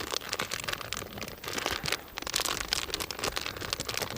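Plastic packet of fishing groundbait crinkling and rustling as it is handled and pulled at to tear it open, a dense run of irregular crackles.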